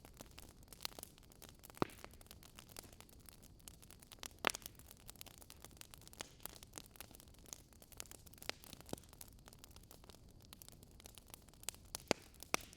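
Campfire or wood fire crackling faintly: a steady low hiss with irregular sharp pops and snaps, a few louder pops scattered through.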